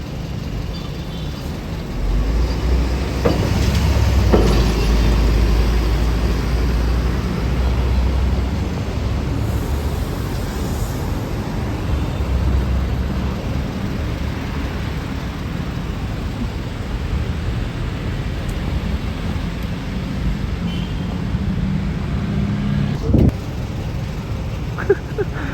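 Road traffic passing close by: a deep engine rumble swells about two seconds in and eases off over the next several seconds, then steady traffic noise continues, with a short sharp knock near the end.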